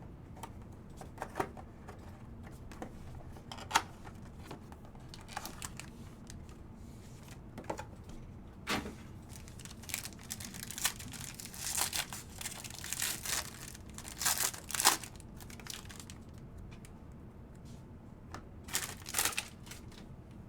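Trading-card pack wrappers being torn open and crinkled, with scattered light clicks and rustles of cards being handled. The crinkling comes in several short spells, busiest in the second half and again near the end.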